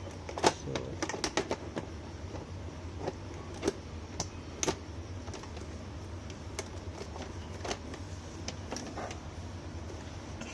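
Light plastic clicks and knocks of a wet-mop unit being fitted onto a robot vacuum cleaner: a quick cluster in the first two seconds, then single clicks every second or so, over a low steady hum.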